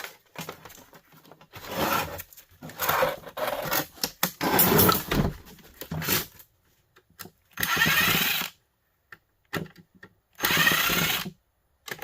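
Power drill-driver running in short bursts, backing screws out of a plastic heater's casing: a choppy run in the first half, then two steady bursts of about a second each.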